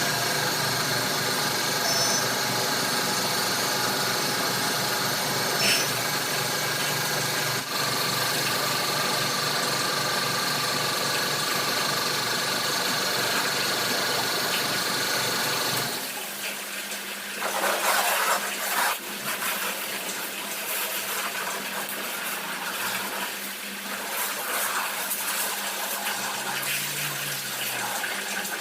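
A motor running steadily with an even hum; about halfway through it changes to a quieter, different steady hum with a hiss over it.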